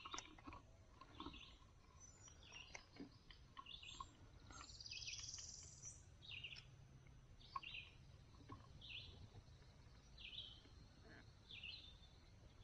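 Faint bird calls: short high chirps repeated about once a second, over a faint low steady rumble.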